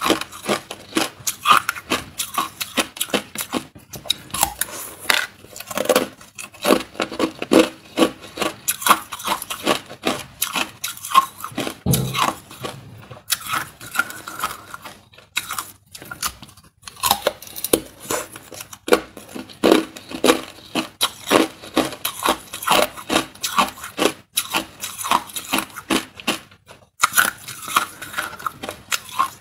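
Hard clear ice being bitten and chewed close to the microphone: rapid crisp crunching and cracking in runs with short pauses, and a duller knock about twelve seconds in.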